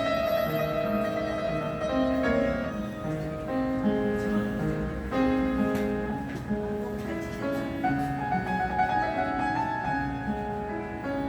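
A piano being played: a melody of held notes over sustained chords.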